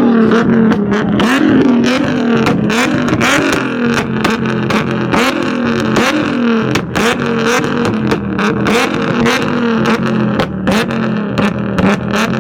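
A car engine revving hard, its pitch swinging up and down again and again, with frequent short sharp cracks through it.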